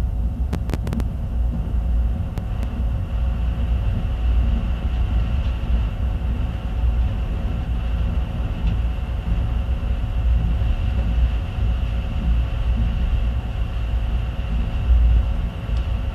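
Passenger train running along the track, heard from a carriage window: a steady low rumble of wheels on rails. There are a few short clicks about half a second to a second in.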